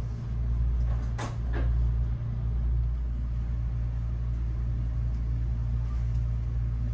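Steady low rumble inside the cabin of a Kintetsu Hinotori limited express train, with a brief sharp noise about a second in.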